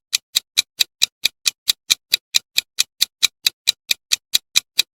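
Countdown timer ticking like a clock, evenly at about four and a half ticks a second, for the quiz's answer countdown.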